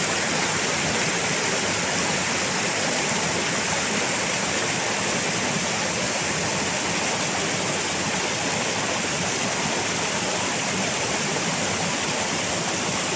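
Rushing water running loudly and steadily, an even hiss-and-roar with no breaks.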